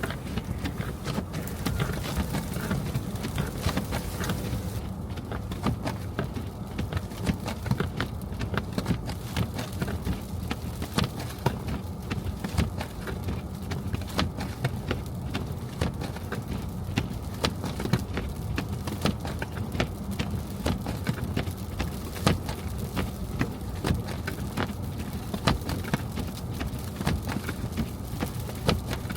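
A car driving over snowy streets: a steady low road and engine rumble with constant irregular clicking and crackling.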